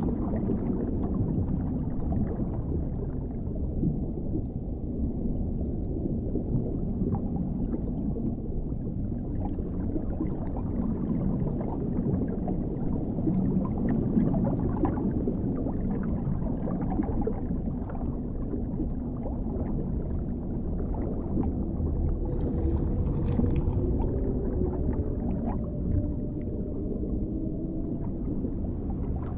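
Dark underwater ambience: a steady, muffled low rumble of water with faint gurgles and small ticks, and a few faint drawn-out tones in the last few seconds.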